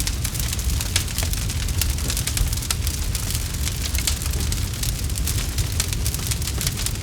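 Campfire crackling: many sharp pops and snaps in quick succession, over a steady low rumble.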